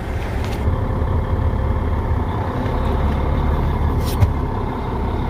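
Peterbilt truck's diesel engine running steadily with a low rumble, a faint hiss stopping about half a second in, and a short sharp sound a little after four seconds.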